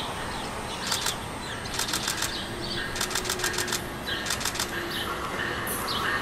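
Amtrak Avelia Liberty high-speed trainset approaching in the distance, heard as a steady background rumble and hiss, broken by several short bursts of rapid clicking.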